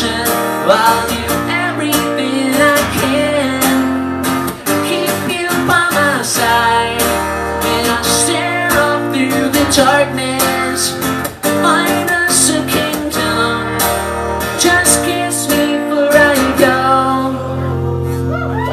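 Acoustic guitar strummed steadily through the song's closing instrumental passage, chords ringing.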